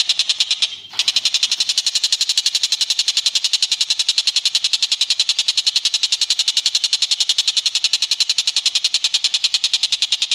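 A bird giving a long, rapid trill of even, high notes. It breaks off for a moment just under a second in, then restarts and runs on steadily.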